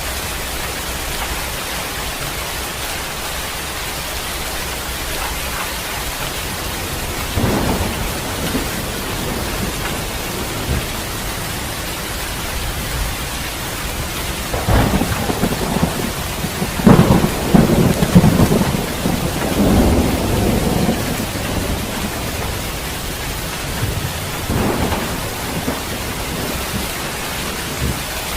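Heavy rain falling steadily with wind, while thunder crackles and rumbles several times. The loudest peal builds about halfway through and rolls on for several seconds, and weaker claps come near the start and near the end.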